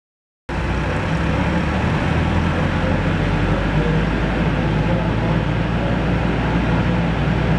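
Steady motor-vehicle engine and road noise with a low rumble, cutting in suddenly from silence about half a second in.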